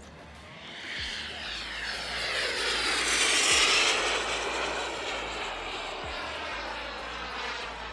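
Twin Xicoy 180 turbine engines of an RC scale jet making a pass: a rushing jet hiss that swells to its loudest about three to four seconds in, sweeping in pitch as it goes by, then fades.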